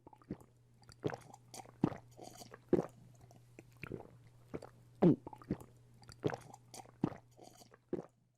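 Irregular sharp clicks and knocks of small metal parts of an old paint spray gun being handled and worked on, the loudest about five seconds in, over a steady low hum.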